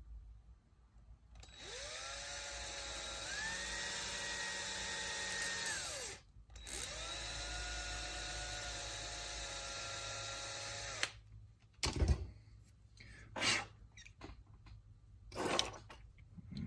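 Electric drill drilling out a part: it spins up and runs for about four seconds, its pitch stepping up once partway, stops briefly, then runs again for about four more seconds. After it stops come several sharp knocks and clicks.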